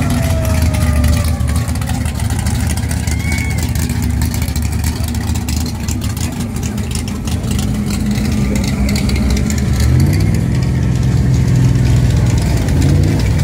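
Classic cars cruising slowly past in a line, their engines running low and steady, with one engine's note rising as it speeds up about ten seconds in.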